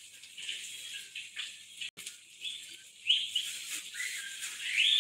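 Small birds chirping: a run of short high chirps, some sliding up or down in pitch, the loudest near the end.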